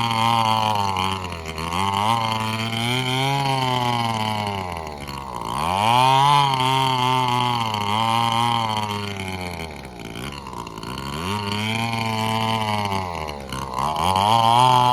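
An engine speeding up and slowing down in repeated swells, its pitch rising, holding, then dropping low three times.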